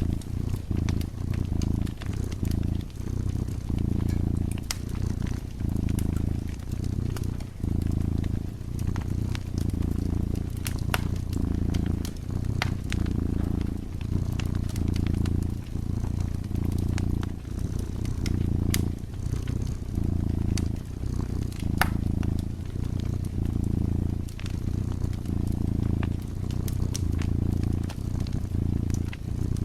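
Domestic cat purring close up, the low rumble swelling and easing with each breath, while a wood fire in a fireplace crackles with scattered sharp pops.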